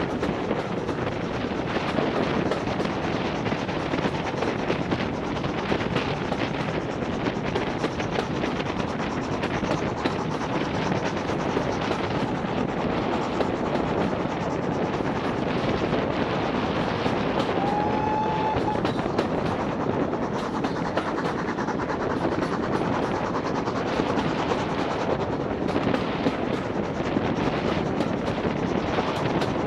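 Heritage steam railway train running: a steady rush and fast rattle of wheels on the rails with wind noise on the microphone. A brief high tone sounds once, a little past halfway.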